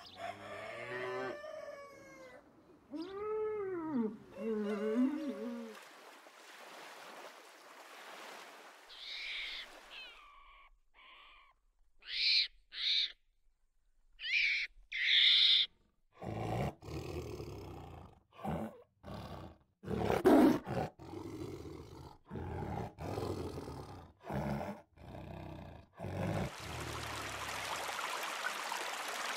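A sequence of animal sounds. Highland cattle calves bawl in long, wavering calls over the first few seconds. Short, high calls follow, then a long run of loud separate calls with brief gaps, and near the end a shallow stream runs steadily over stones.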